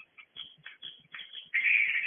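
Edible-nest swiftlets twittering: short chirps several times a second, then about one and a half seconds in a much louder, continuous twittering chorus starts.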